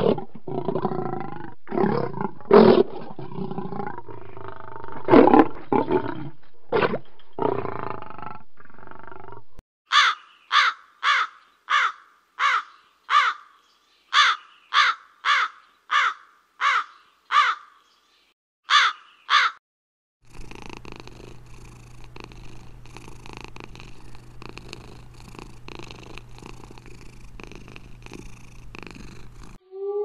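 A lion roaring and grunting in a series of loud calls. Then a bird gives about sixteen short, sharp calls, each falling in pitch. For the last ten seconds there is a low steady hum with a fast, rasping crackle.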